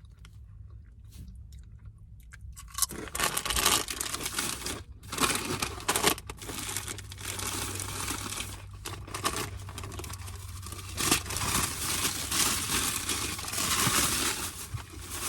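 Kettle-cooked potato chips being bitten and chewed, a dense crunching that starts about three seconds in and carries on.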